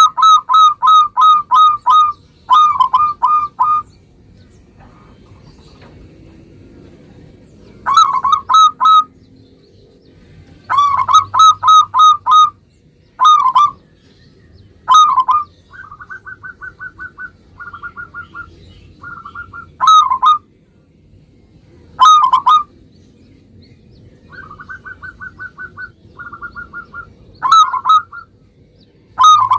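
Zebra dove (perkutut) cooing: repeated phrases of quick, bubbling coo notes, each group lasting a second or two with pauses between. In some pauses a fainter, slightly higher run of rapid notes is heard.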